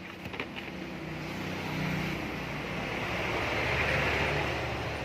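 A vehicle passing by, its noise swelling to a peak about four seconds in.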